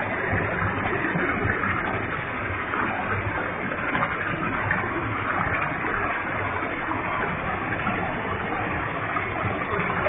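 Waterfall with a heavy flow: water falling and splashing in a steady, even rush.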